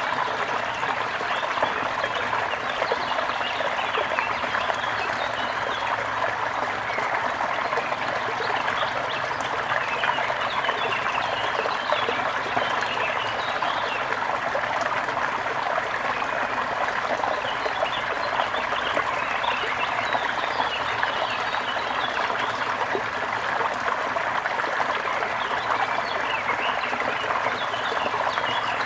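Brook water babbling and trickling steadily.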